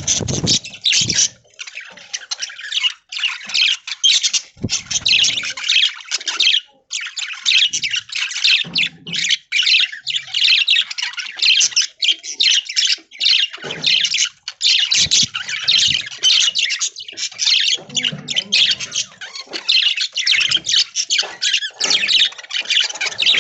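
A flock of budgies chattering and squawking continuously, a dense run of fast chirps, warbles and harsh calls.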